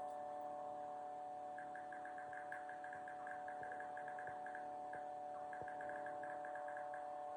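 Quiet steady electrical hum, two constant tones, with faint groups of fast ticking pulses over it.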